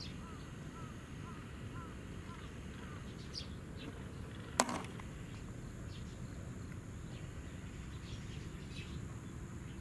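Lakeside outdoor ambience: a steady low rumble with scattered short bird calls, including a run of soft, evenly repeated chirps in the first two seconds. There is one sharp click a little after halfway.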